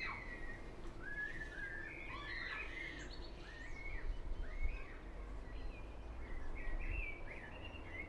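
Birds chirping, a string of short notes that rise and fall in pitch, one after another, over a low steady rumble.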